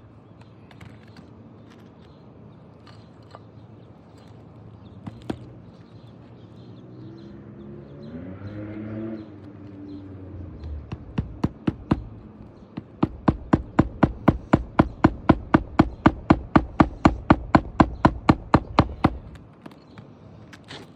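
Hammer striking in rapid, steady blows, about four to five a second, with a long run in the second half: a replacement asphalt shingle being nailed down on a roof repair. Before that, a quieter stretch holds a brief pitched sound that rises and falls.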